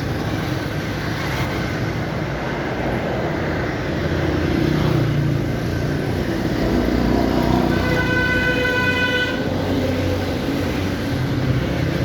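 Road traffic, with engines rumbling and vehicles passing, louder from a few seconds in. About eight seconds in, a vehicle horn sounds once for about a second and a half.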